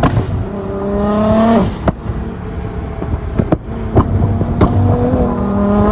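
Car engine revving hard, rising in pitch twice (once in the first two seconds, again from about four seconds in), with several sharp pops between the revs.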